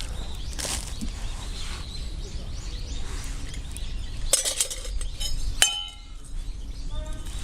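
A few light clinks of metal camp cookware, then one sharp clink about five and a half seconds in that rings briefly, like a cup being set down or struck. Music comes in near the end.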